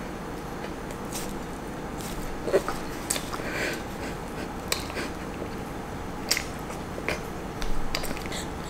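Someone chewing a mouthful of fried chicken sandwich with the mouth closed, with scattered short wet clicks and smacks, and biting into the sandwich again near the end.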